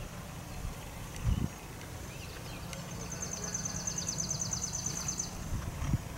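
A songbird's rapid trill of evenly repeated high notes, about ten a second, running for a couple of seconds mid-way, over a steady low rumble. Two dull low thumps stand out, one about a second in and one near the end.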